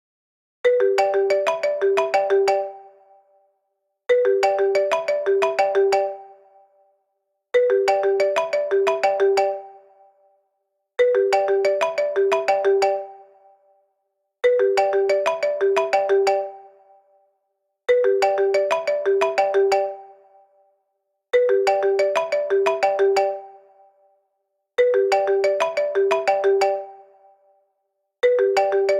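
iPad timer alarm tone going off, starting about half a second in: a short melodic chime phrase repeating about every three and a half seconds.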